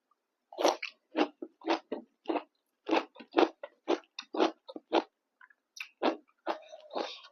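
Close-miked chewing of fried pork: a steady run of crunchy bites at about two a second, a short pause, then more chewing near the end.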